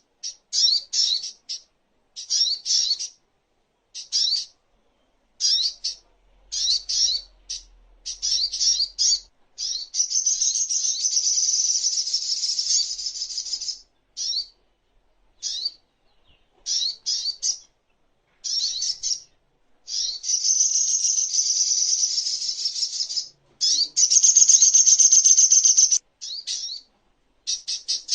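Sogok ontong sunbird singing: short bursts of rapid, very high-pitched chirps, broken by three long fast trills, about ten, twenty and twenty-four seconds in.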